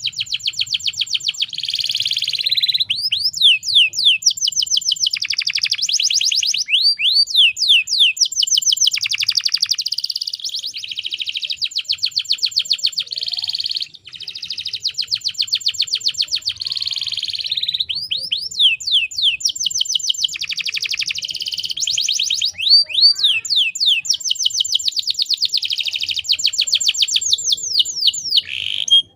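Domestic canary singing a long, rolling song of fast trills and rapid repeated notes mixed with quick sweeping notes, breaking off briefly about halfway through.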